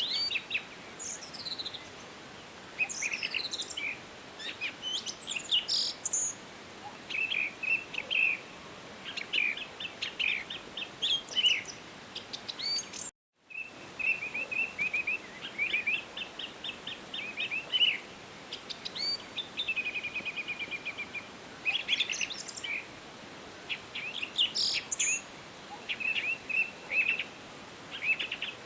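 Several songbirds singing in a forest, overlapping rapid trills and chirping phrases over a faint steady background hiss; the sound cuts out completely for a moment about halfway through.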